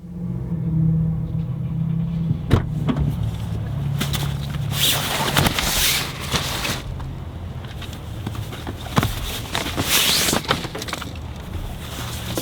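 Car noise: a steady low engine hum, with louder rushing swells about five and ten seconds in.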